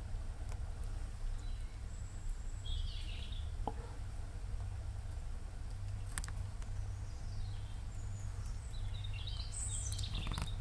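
Outdoor ambience: a steady low rumble with a few short, high bird chirps, about three seconds in and again near the end, and a few faint ticks.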